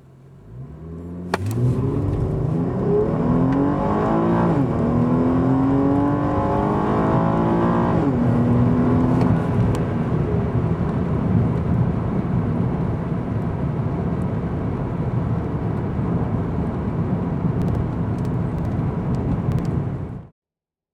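2013 Cadillac ATS 3.6-liter V6 engine pulling hard under full-throttle acceleration, its pitch climbing, dropping at an upshift about four seconds in, climbing again and dropping at a second upshift about eight seconds in. After that the car runs on at a steady speed with a steady engine and road hum, which cuts off suddenly near the end.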